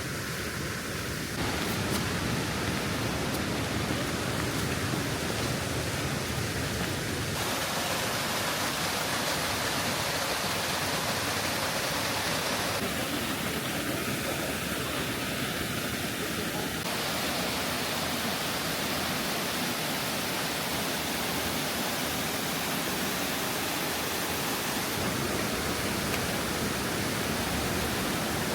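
Waterfall: a steady, dense rush of falling water, its tone changing abruptly several times.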